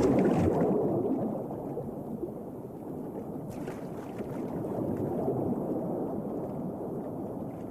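Muffled churning, gurgling water, loudest at the start and fading away over several seconds.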